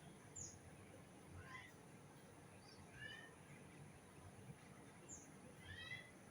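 Faint bird calls: about six short, separate chirps and whistled notes, some high and falling, others lower and richer, over a quiet steady background hiss.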